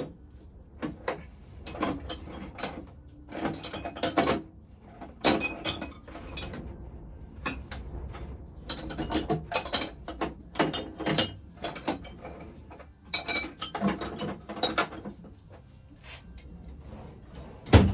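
Metal hand tools working on an engine: bursts of ratchet-like clicking and metallic clinks, with a sharp metal knock near the end.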